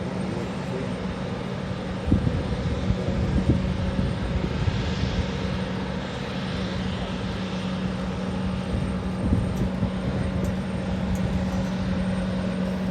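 Airliner engines running steadily at idle with a constant hum while the plane holds before its take-off run. A few dull low knocks come about two to three seconds in.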